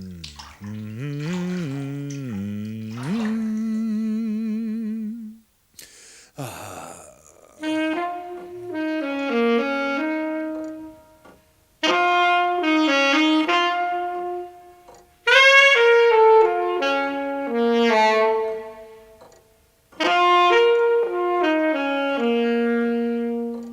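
Instrumental music: a single wind instrument plays four short phrases of held notes, mostly stepping downward. Before them come a wobbling, sliding tone in the first few seconds and a brief whoosh about six seconds in.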